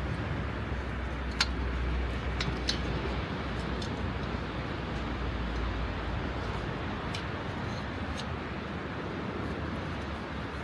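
Steady hiss of rain and sea with a low rumble underneath, and a handful of short, sharp clicks scattered through it.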